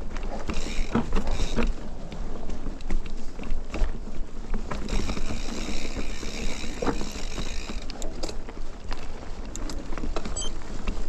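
Mountain bike riding over a rough dirt trail: a steady rumble of tyres and frame with many small knocks, and wind on the microphone. A high buzz comes in twice, briefly about half a second in and again from about five to eight seconds.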